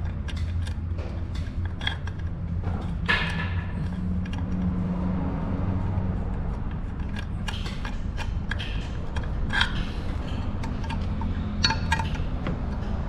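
Scattered small metallic clinks and taps of tools and screws being handled while Allen screws are fitted to a motorcycle engine cover, over a steady low hum.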